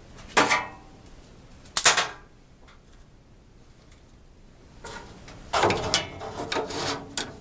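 Two sharp knocks about a second and a half apart, then a run of clattering knocks and rattles near the end, as from a furnace filter being handled and knocked against something.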